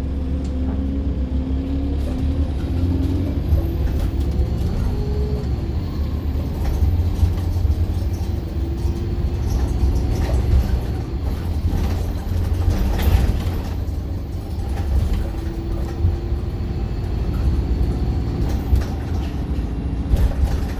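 Diesel bus engine and drivetrain running under way, heard from inside the passenger cabin: a steady deep rumble with a whine that rises and steps up as the bus pulls away and changes gear. A faint high whistle runs through the middle.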